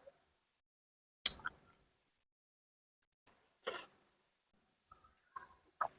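Close-miked eating sounds from a bowl of chicken rice porridge: a handful of short, separate noises with silence between, the longest and loudest about three and a half seconds in.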